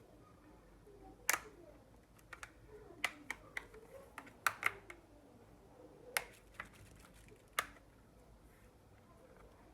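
Irregular sharp clicks and taps of small tools and plastic parts while a Samsung Galaxy A03 phone is taken apart, about a dozen in all, the loudest about a second in and a cluster in the middle.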